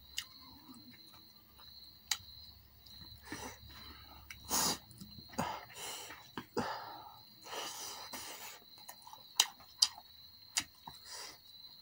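Close-miked eating sounds: chicken drumstick meat being chewed, with wet mouth noises and several sharp lip-smack clicks scattered throughout.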